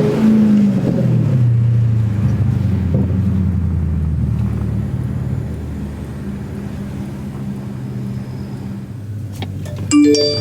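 Dodge Charger SRT8's 392 Hemi V8 engine easing off after a rev, its pitch falling over the first two seconds, then running at a steady low note that slowly gets quieter. A brief sharp, higher-pitched sound comes near the end.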